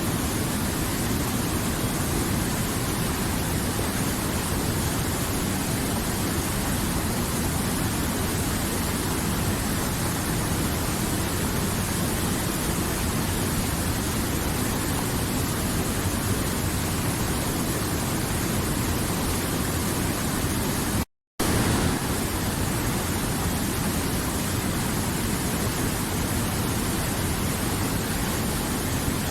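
River water flowing in a steady, even rush. About two-thirds of the way through it cuts out completely for a fraction of a second, then comes back slightly louder.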